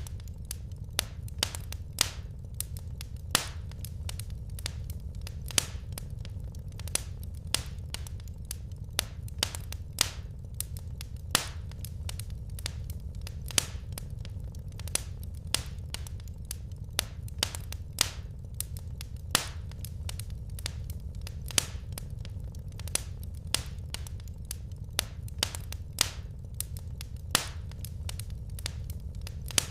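Wood fire crackling in a fireplace: irregular sharp pops and snaps, a few a second, over a steady low rumble of the burning fire.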